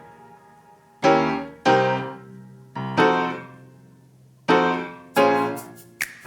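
Background music: a piano or electric piano playing slow, separate chords, each one struck and left to fade.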